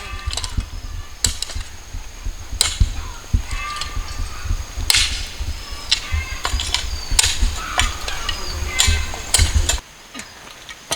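Sugar cane being cut and handled: a string of sharp, irregular chops and snaps. A low rumble of wind on the microphone stops about ten seconds in, and birds chirp now and then.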